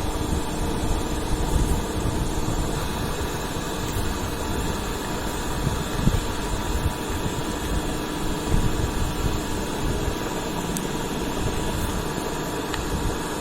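Steady mechanical whir of a fan, with a few faint steady tones and an uneven low rumble.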